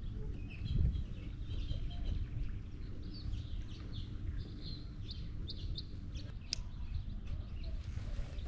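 Small birds chirping in quick short notes, over a steady low rumble, with a sharp click about six and a half seconds in.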